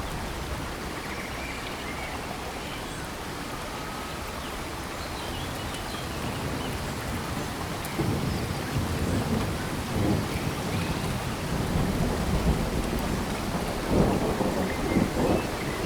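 Steady rain falling on tropical forest, with a low, uneven rumbling that swells from about halfway through and peaks near the end.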